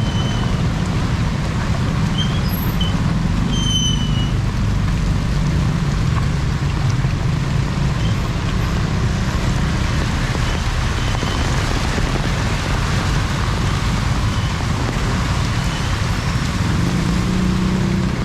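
Steady street noise in heavy rain: rain falling with the low rumble of vehicle engines. A few short high squeaks sound in the first few seconds.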